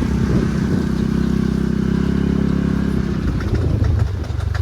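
Ranger utility vehicle's engine running as it drives, its note swelling and then dropping off about three seconds in. A run of popping knocks from the rear follows near the end, which the driver takes for a broken rear axle.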